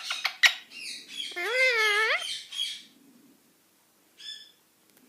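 Indian ringneck parrot calling: a few sharp clicks, then a loud wavering call lasting under a second, and a short high squawk about four seconds in.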